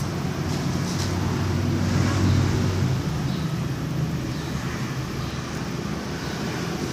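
An engine running with a low hum that grows louder over the first two seconds or so, then eases off.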